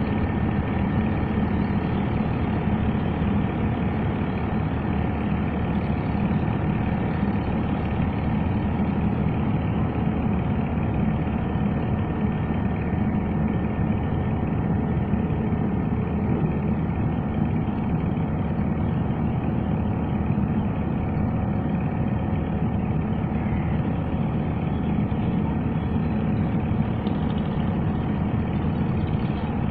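A heavy engine running steadily at idle: an unbroken low hum with faint steady whining tones above it.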